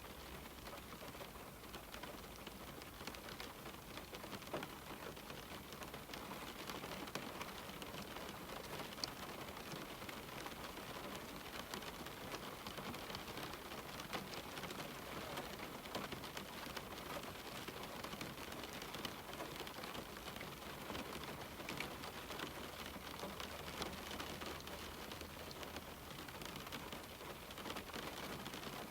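Steady rain falling on a window pane: a constant hiss dotted with many small drop ticks.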